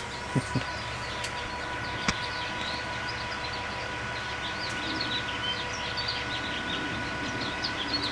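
Small birds chirping, busier in the second half, over a steady drone of distant city machinery with a constant whine. A few sharp clicks come in the first couple of seconds.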